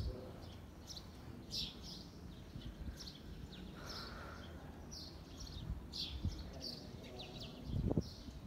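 Small birds chirping, many short high calls scattered irregularly, over a steady low rumble. There is a louder low burst near the end.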